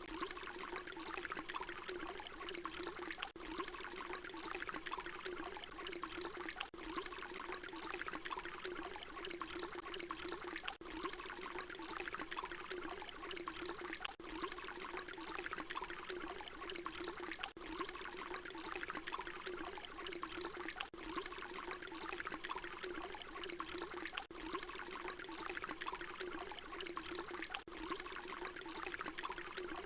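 Water pouring in a steady, continuous stream, with a brief dip in level about every three and a half seconds where the loop repeats.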